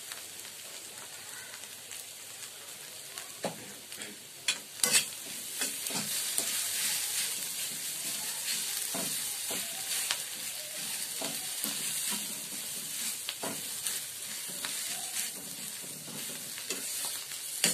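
Spiced potato filling sizzling in oil in a kadhai while a metal spatula stirs and scrapes it around the pan, with a few sharp knocks of the spatula against the pan about three to five seconds in.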